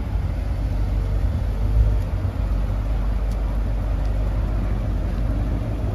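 Chevrolet Corvette V8 running at idle, a steady low rumble.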